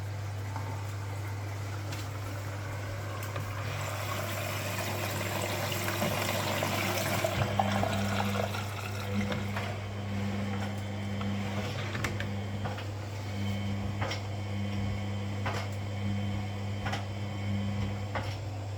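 Washing machine taking in water: a rush of inflowing water that swells and fades about four to eight seconds in, over a steady low hum. After that a hum comes and goes in stretches, with light knocks about every second and a half near the end.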